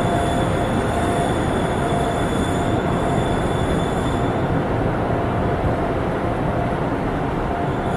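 Train running past at close range: a steady rumble with thin high whining tones over it, which stop about halfway through.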